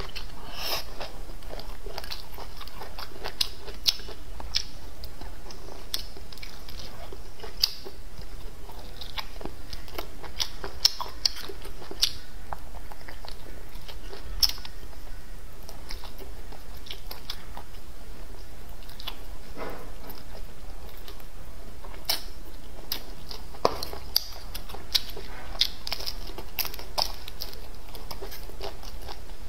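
Close-up eating sounds of biting and chewing pig tail, with irregular sharp clicks throughout.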